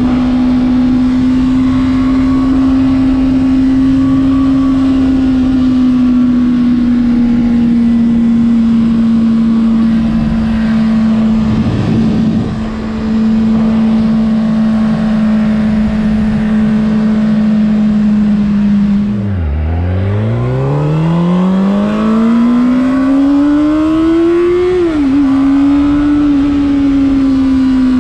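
Honda CBR600RR's inline-four engine running at steady high revs, then dropping sharply almost to idle about two-thirds of the way through and climbing again under acceleration, with a quick dip for a gear change near the end. A steady rushing noise lies beneath the engine.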